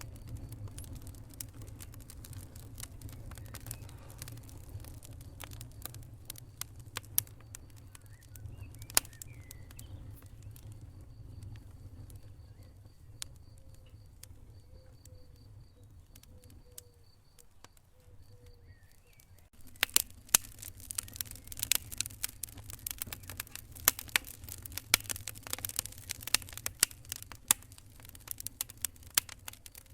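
Wood fire burning in a fireplace: irregular crackles and pops over a low steady rumble of flame. The crackling thins out past the middle, then comes back denser and louder about twenty seconds in.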